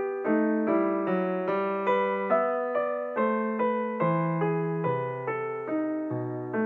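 Background music: a solo electric piano playing an even run of notes, about two or three a second, each note fading as the next begins.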